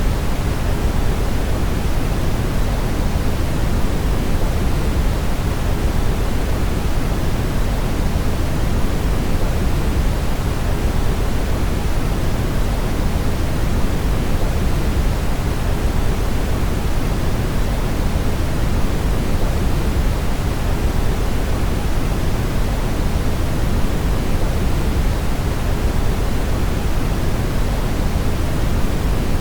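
Steady brown noise: an even, unchanging rushing hiss, deepest and strongest in the low end and falling away toward the highs.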